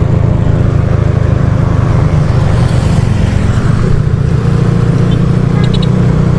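Big-bore (63 mm) Yamaha Lagenda 110ZR motorcycle engine running steadily at cruising speed, with a constant low drone mixed with wind rushing over the on-board camera.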